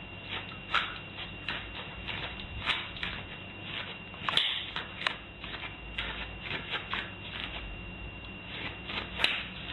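Irregular small clicks and taps, several a second, over a faint steady high-pitched tone.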